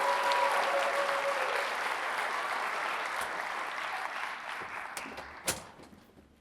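Audience applauding, dying away over the last second or two, with a single sharp click near the end.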